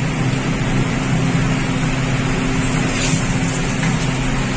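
Ginger-garlic paste frying in hot oil and butter in a pan: a steady sizzle over a low steady hum.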